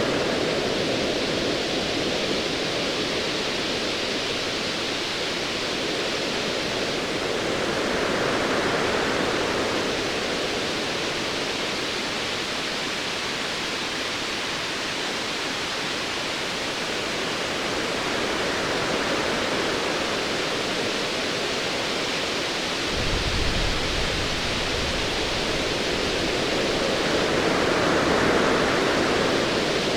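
Ocean waves washing in slow swells about every ten seconds, a steady hiss of surf between them. About three-quarters of the way through a low rumble of distant thunder starts and rolls on beneath the waves.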